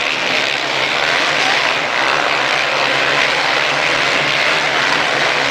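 Motocross motorcycle engines running, a steady drone with no breaks.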